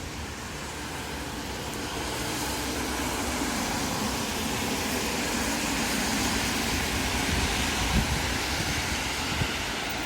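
Road traffic on a wet street: a vehicle's tyres rushing over the wet road. The noise grows louder from about two seconds in and stays up.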